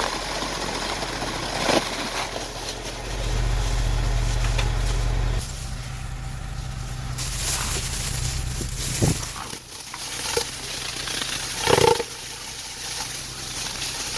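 Car engine idling with a steady low rumble, which grows louder for about two seconds a few seconds in. A few sharp knocks come at scattered moments.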